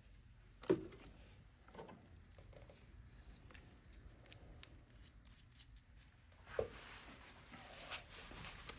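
Faint hand-handling of engine parts on a workbench: a sharp knock about a second in, a few light taps, then another knock followed by rustling and scraping near the end.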